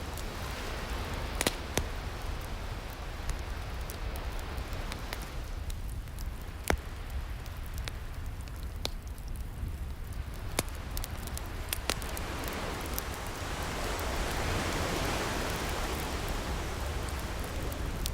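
Wood fire crackling and popping, with sharp snaps now and then, over the steady wash of ocean waves, one wave swelling and receding near the end.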